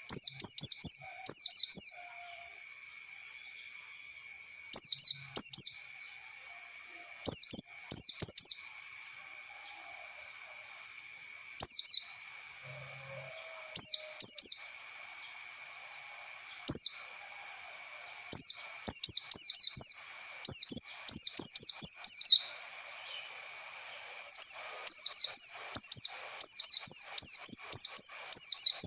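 White-eye (pleci) song used as a training lure: bursts of rapid, high, twittering chirps in phrases of a second or two with short pauses between, coming thicker and almost continuous near the end. A faint steady high whine runs underneath.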